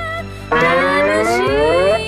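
Background music, then about half a second in a loud pitched sound effect that rises steadily in pitch for about a second and a half and stops abruptly.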